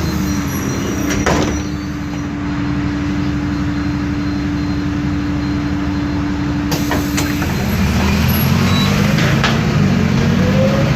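Isobus City 1200 bus heard on board: the MAN D0836 diesel runs with a steady gear whine from the ZF Ecomat automatic and the differential. From about eight seconds in the engine pulls harder and a second whine rises in pitch as the bus speeds up. A few sharp knocks come through the body.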